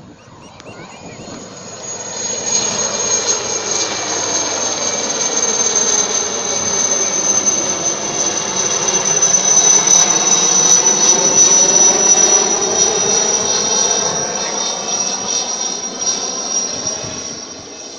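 Military helicopter flying past: its engine and rotor noise, with a steady high whine, build up over several seconds, peak about two-thirds of the way through, then fade as it moves away.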